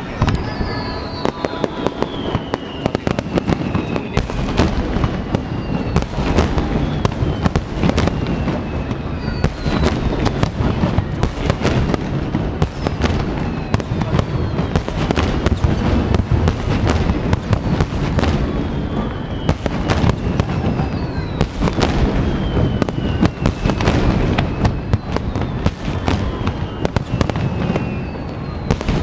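Aerial fireworks in a dense barrage: booms and sharp bursts one after another. Several whistles slide down in pitch over a few seconds each.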